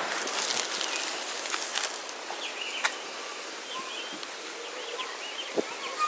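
Small birds chirping, a run of short high chirps through the middle, over a steady background hiss, with a few light clicks.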